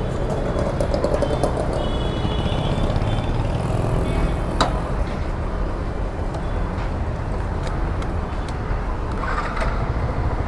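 Steady street traffic noise: a continuous low rumble of vehicles passing in a busy road, with a sharp click about four and a half seconds in.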